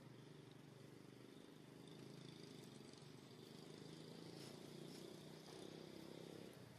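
Near silence: a faint, steady low hum with a fine rapid flutter.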